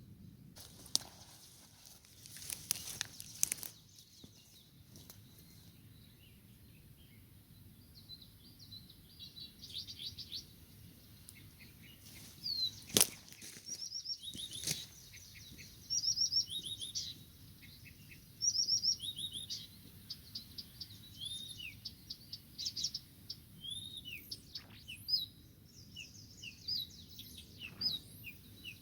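Songbird singing a long run of short, rapid, varied high chirps and trills, with a few sharp clicks or knocks, the loudest about halfway through.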